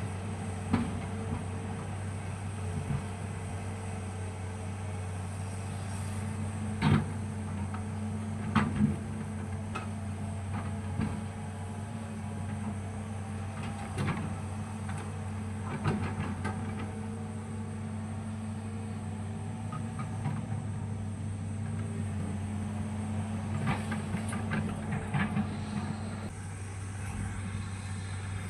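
Hitachi hydraulic excavator's diesel engine running steadily while it works, with a sharp knock now and then, loudest about 7 and 9 seconds in.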